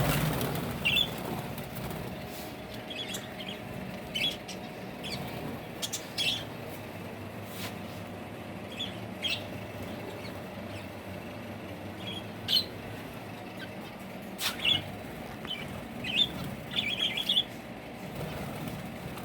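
Birds flapping their wings, with many short, high chirps scattered throughout and a few sharp clicks.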